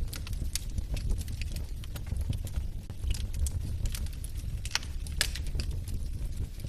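Wood fire burning in a fireplace: a steady low rumble of the flames with irregular sharp crackles and pops from the logs, the loudest pops about five seconds in.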